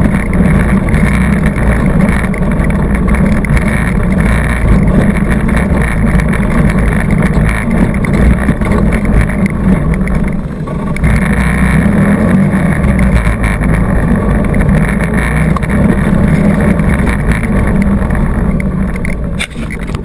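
ATV engine running hard under way, loud and steady, dipping briefly about halfway before picking up again.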